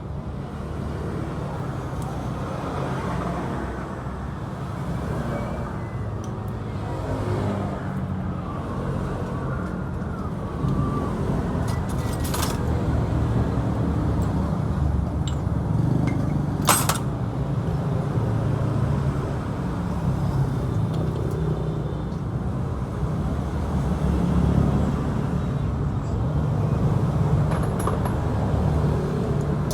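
Yamaha Exciter 135's single-cylinder four-stroke engine running steadily. Two sharp clicks come a few seconds apart midway.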